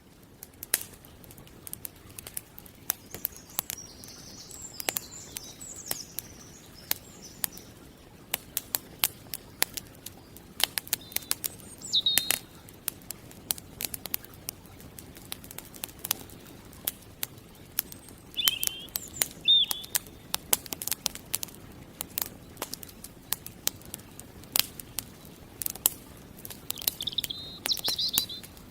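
Campfire crackling with frequent sharp pops, while birds sing short chirping phrases now and then.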